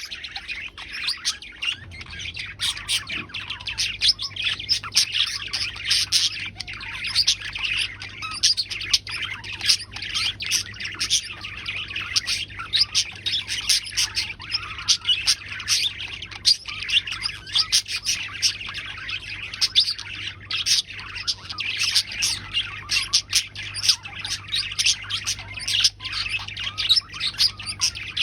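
Pet budgerigars chattering and chirping without pause, a rapid stream of short high calls.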